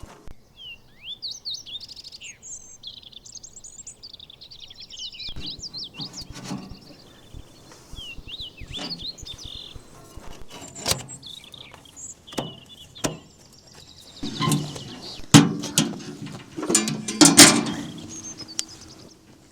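Songbirds chirping and singing in quick, high, twittering phrases. In the second half come a series of sharp knocks and clatter, loudest about three quarters of the way through.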